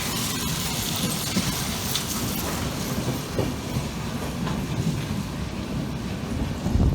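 Indian passenger train running on the track: a steady rumble of the moving coach with the occasional click of wheels over rail joints. A louder low rumble swells in right at the end.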